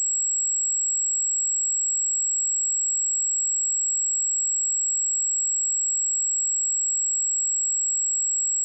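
A pure 7678 Hz sine-wave test tone, one steady high-pitched whistle held at constant pitch and level.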